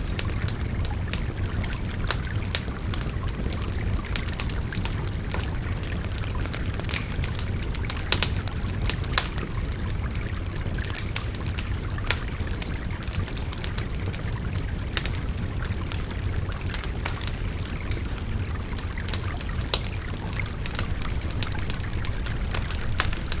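Wood fire crackling, with irregular sharp pops and snaps, over the steady sound of a babbling river.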